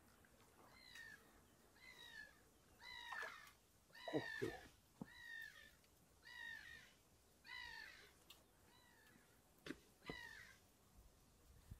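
A bird calling over and over, one short downward-slurred call about every second, with a few soft low knocks in the middle and near the end.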